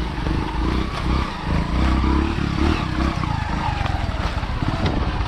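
Motorcycle engine running as the bike rides over a rough off-road track, with scattered knocks and rattles over a steady low rumble.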